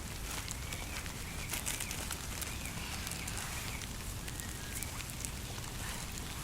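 Campfire crackling, with many small sharp pops over a steady low background noise.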